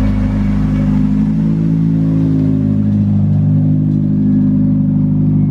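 Nissan 240SX hatchback's engine running loud at a steady, unchanging pitch as the car rolls slowly past, just after being push-started on a flat battery.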